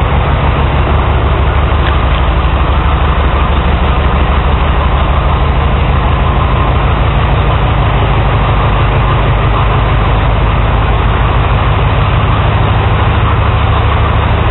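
Case 400 tractor's four-cylinder engine running steadily at a constant speed, loud and close up.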